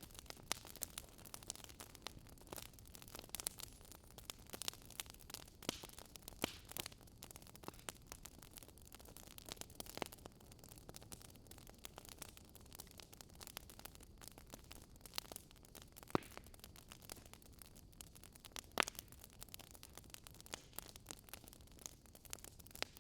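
Wood fire crackling: irregular sharp pops and snaps over a soft steady hiss, with two louder pops near the middle.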